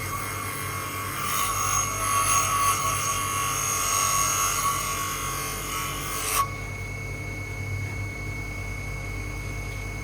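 Abrasive shaping work: a steady rasping rub of a tool on the knife stock that stops abruptly about six seconds in, leaving a faint steady high tone and a low hum.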